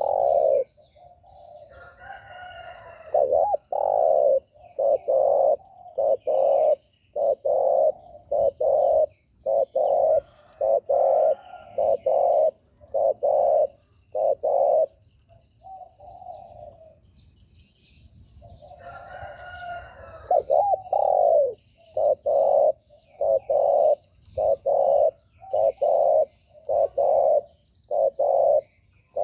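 Spotted dove giving its 'gù' coo call: a long run of short coos at about one and a half a second. About two seconds in and again about twenty seconds in, a longer, fuller cooing phrase breaks the run.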